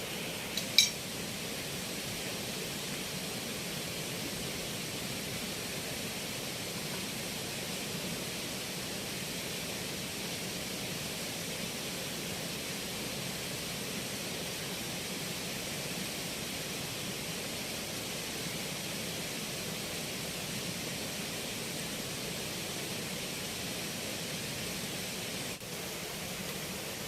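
Steady, even hiss with a single sharp click about a second in.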